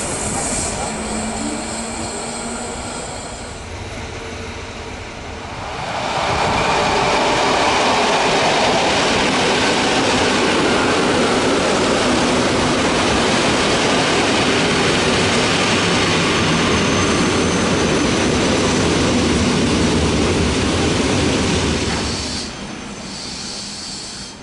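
EN57 electric multiple unit running alongside the platform, its wheels and motors making a steady noise. The sound is moderate for the first few seconds, grows loud about six seconds in, holds for about sixteen seconds, then falls away near the end.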